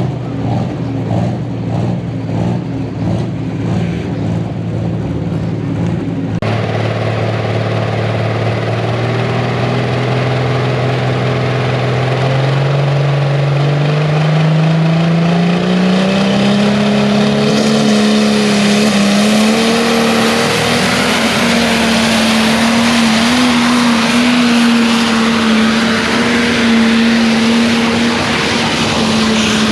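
Tractor-pulling engine running steadily, then climbing in pitch about twelve seconds in and holding at a high, steady pitch under full throttle, with a loud rush of noise building over it.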